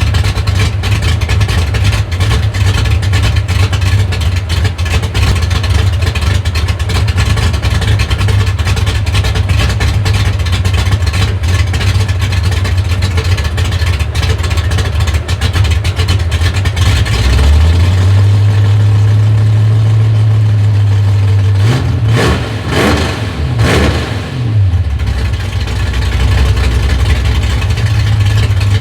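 355 cubic-inch small-block Chevy V8 with a choppy cam running through fenderwell headers with a lopey, uneven idle. About two-thirds of the way through it is held at a steady higher rpm, then revved up and down a few times before settling back to idle.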